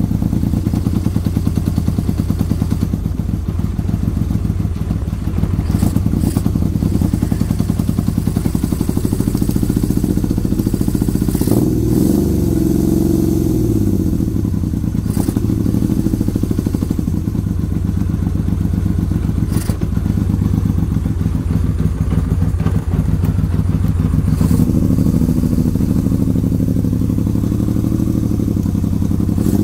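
1977 Yamaha XS750-2D's three-cylinder engine running through a Jardine exhaust, idling steadily. About twelve seconds in it is blipped, the pitch rising and falling back, with a lighter blip near twenty-five seconds. It is running for the first time in 34 years.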